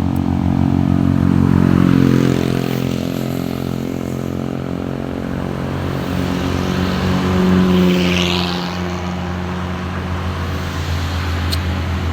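Heavily loaded truck's diesel engine pulling slowly uphill, a low, steady engine note, with a brief hiss about eight seconds in.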